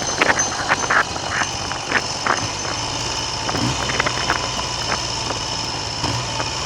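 Triumph Trident three-cylinder engine running under wind noise on the microphone. A run of sharp pops or taps comes in the first two seconds or so, then a steady low engine note settles in from about halfway through.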